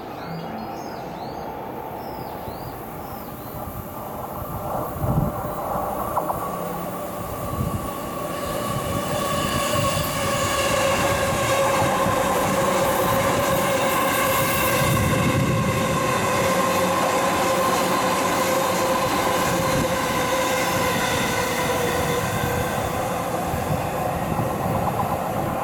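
JR East E233-series electric commuter train passing on the Chūō Rapid Line tracks. A couple of clunks come a few seconds in, then the sound grows from about a third of the way in into a steady rumble with a held, slightly falling whine.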